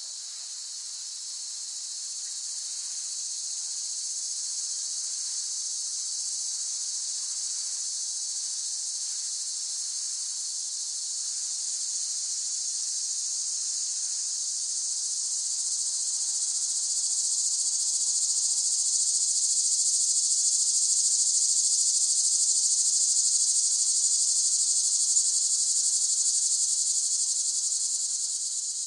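Cicadas buzzing in a steady, high-pitched drone that swells louder past the middle and eases off near the end.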